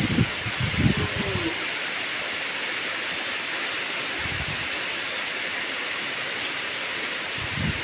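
Steady rain falling, an even hiss, with some low rumbling in the first second and a half.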